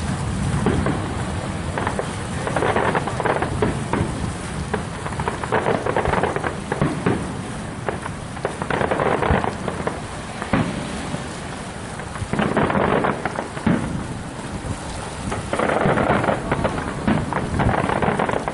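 Fireworks going off: deep booms and a steady rumble, with bursts of crackling that come in clusters every two to three seconds.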